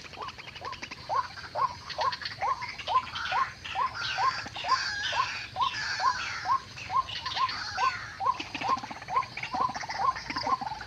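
White-breasted waterhen calls: a short, downward-falling call repeated about three times a second, with busier, higher calls over it through the middle.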